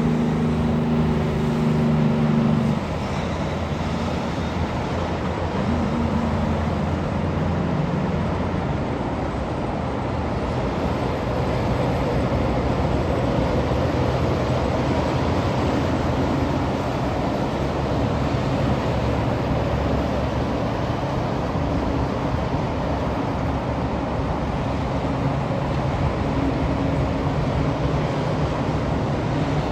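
Road traffic with trucks passing. A heavy engine's note is loud for the first few seconds, then cuts down to a steady wash of tyre and engine noise, with engines rising and fading as vehicles go by.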